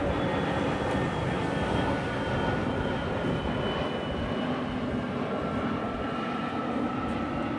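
Airliner passing close by: a steady rush of engine noise with a high whine that slowly falls in pitch.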